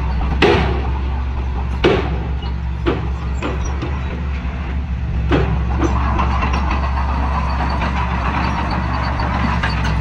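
Heavy earthmoving machine's diesel engine running steadily, with about half a dozen sharp knocks in the first six seconds, the two loudest about half a second and two seconds in.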